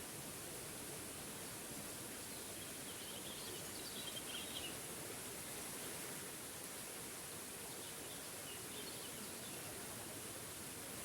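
Small forest waterfall rushing steadily, with faint bird chirps twice: a few seconds in and again near the end.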